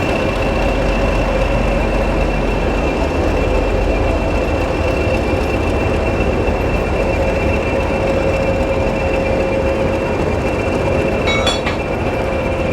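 Train running on the rails: a steady rumble and rail noise with a thin, high, steady whine over it, and a short clatter of clicks about eleven seconds in.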